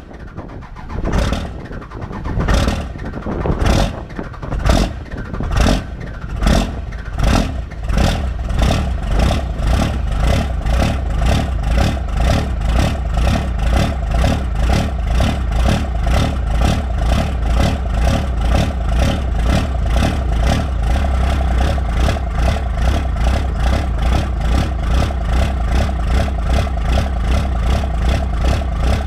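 Cold start of a 24-valve Cummins inline-six diesel with a P7100 injection pump and no grid heater: just after catching it runs rough, with heavy, uneven beats about a second apart, then within about eight seconds it picks up and settles into a steady, even diesel idle clatter.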